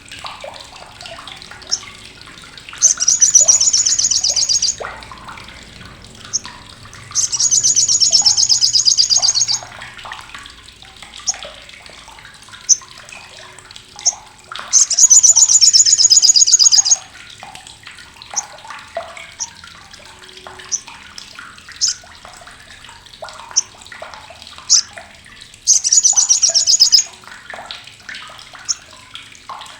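Olive-backed sunbird (sogok ontong) giving its harsh, sharp chatter ('crecetan'): four loud rapid rattling bursts of about two seconds each, with short single chip notes between them.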